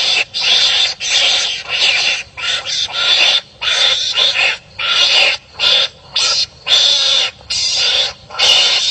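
Animal calls: a rapid run of harsh, raspy cries in short bursts of a fraction of a second each, broken by brief gaps, of the animal that Khmer hunters call 'ska'.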